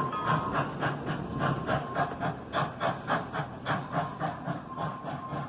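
Narrow-gauge steam train running by, with steam hiss and a steady rhythmic beat of about four strokes a second that slowly gets quieter.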